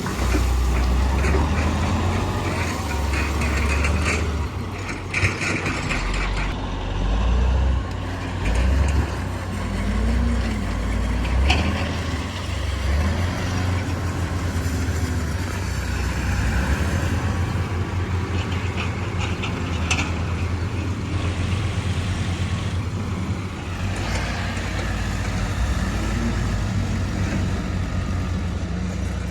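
Heavy diesel earthmoving machinery running, its deep engine note rising and easing under load, with a couple of sharp knocks.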